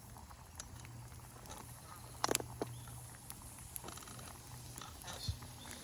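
Wood campfire crackling with scattered sharp pops, the loudest about two seconds in, while a pot of miso udon broth on the fire comes up to a bubbling boil.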